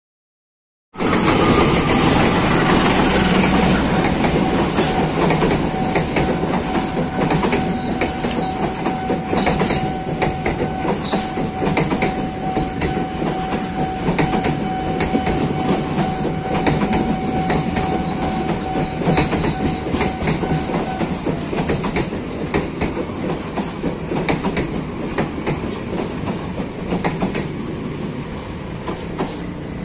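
Passenger train running past, its wheels clattering over the rail joints. A thin steady tone rings through the first two-thirds. The sound comes in suddenly and then slowly fades.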